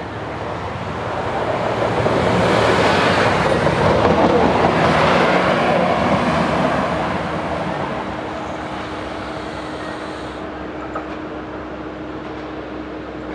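Siemens Desiro diesel railcar passing close by: its engine and wheels on the rails grow louder over the first couple of seconds, peak as the cars go past, and fade about halfway through to a steady low hum as it draws away.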